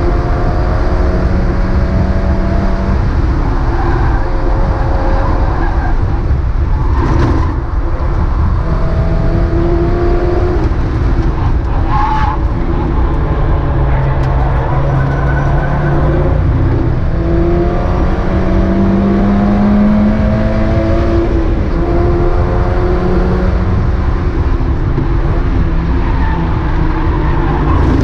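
Mazda MX-5 race car's four-cylinder engine at racing speed, its pitch climbing repeatedly through the gears and falling back under braking, over a steady rush of tyre and road noise. Two brief sharp noises come about a third and halfway through.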